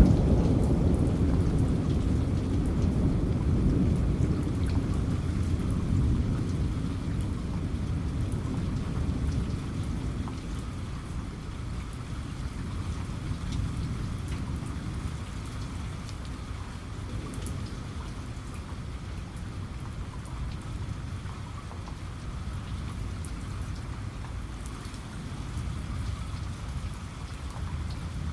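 Steady heavy rain, with a low rumble of thunder at the start that fades away over the first ten seconds or so.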